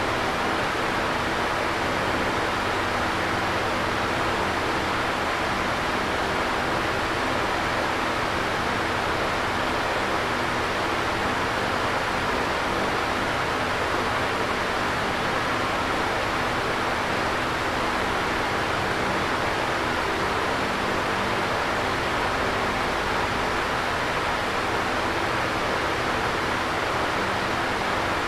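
Electric fan running steadily: an even rush of moving air with a faint low hum underneath.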